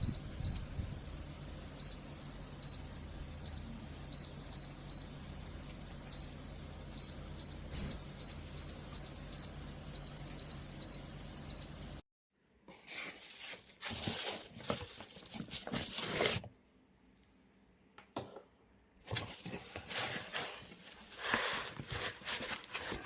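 Short high electronic beeps from a glass electric health-pot kettle's control panel as its buttons are pressed, about twenty at irregular spacing over a low steady hum. About halfway through, the hum stops and irregular clattering and handling knocks follow, with a pause of a couple of seconds.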